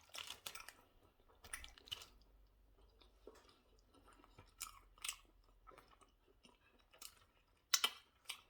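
A person chewing and biting food close to the microphone: irregular short, wet, clicky mouth sounds with some crunch, the sharpest ones near the start, about two seconds in, around five seconds in and near the end.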